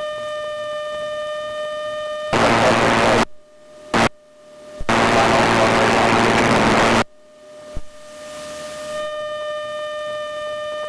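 Aircraft radio and intercom audio: a steady high tone hums on, twice cut off by loud bursts of radio static hiss that switch on and off abruptly, the first about a second long and the second about two seconds, like a transmission keyed with nothing said.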